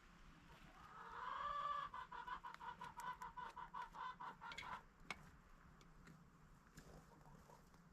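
A chicken calling: one drawn-out note rising and then held, followed by a fast run of clucks, about seven a second, that stops about five seconds in. Faint scattered clicks follow.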